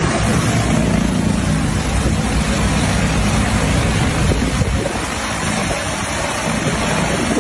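An agricultural spraying drone's rotors running: a steady, loud whirring hiss with a low hum underneath.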